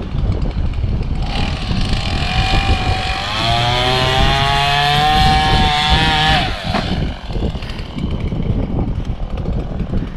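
An engine's whine rising slowly for about five seconds, then dropping away, over heavy wind buffeting the microphone.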